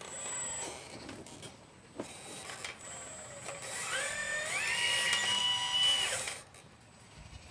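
Small electric motor of a 1/12-scale RC Liebherr 954 excavator model whining as it runs, stepping up in pitch about four seconds in, holding steady, then cutting off near six seconds. A single click about two seconds in.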